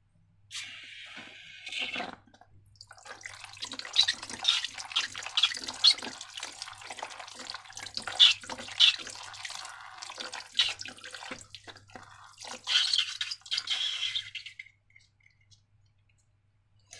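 Wet, sticky slime squelching and dripping in many quick clicks and plops, with a short hiss near the start. It stops about two seconds before the end.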